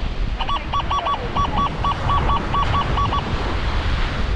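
Metal detector beeping in a quick run of short, same-pitched pulses, about four a second, which stop about three seconds in. Steady wind and surf noise runs underneath.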